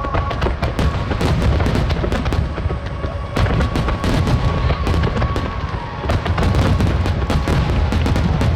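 Dense barrage of aerial firework shells bursting: rapid booms and crackling over a continuous low rumble.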